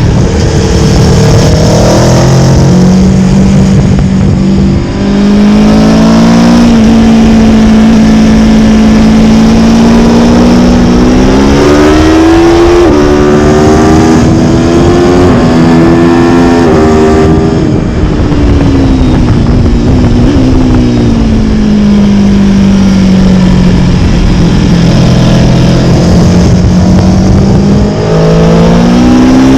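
Motorcycle engine heard from on the bike at speed, revving up through the gears with quick pitch steps at each shift, dropping away as it slows, then pulling hard again near the end, over loud steady wind rush.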